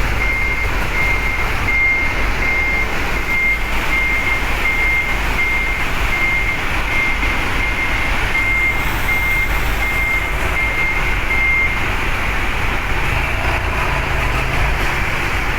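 A truck's reversing alarm beeping steadily, a bit more than once a second, over the low rumble of truck engines. The beeping stops about twelve seconds in.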